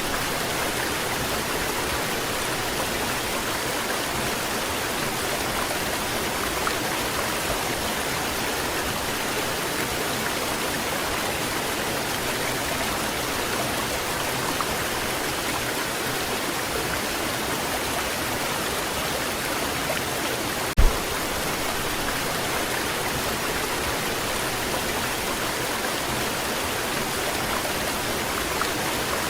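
Waterfall pouring steadily: an even, dense rush of falling water. One brief low thump comes about two-thirds of the way through.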